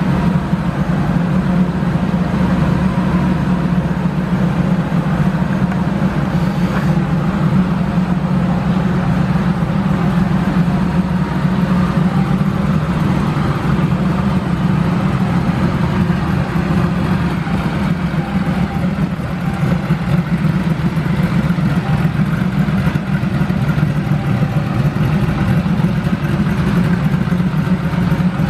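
Air-cooled 3.2-litre flat-six of a 1986 Porsche 911 Carrera idling steadily.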